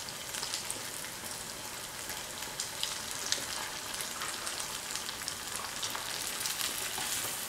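Coated paneer fingers frying, a steady sizzle with many small crackles and pops; they are nearly done, almost golden brown.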